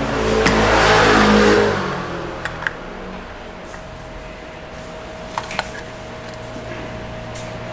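Hyundai Veracruz engine, freshly filled with 0W-40 oil, revving briefly and then settling to a steady idle about two seconds in.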